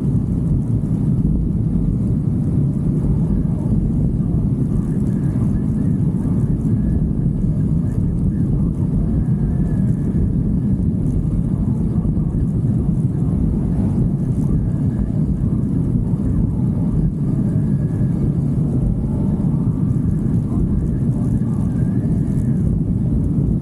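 Steady rumble of a motorcycle ride, with wind buffeting the microphone and the engine running at an even pace.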